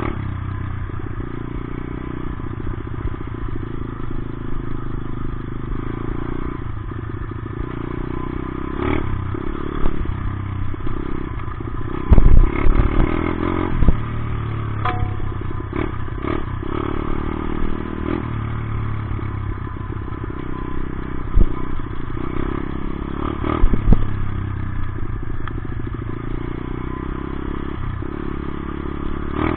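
Off-road motorcycle engine running under changing throttle, its pitch rising and falling. Several sharp thumps and clatters cut through it, the loudest about twelve seconds in.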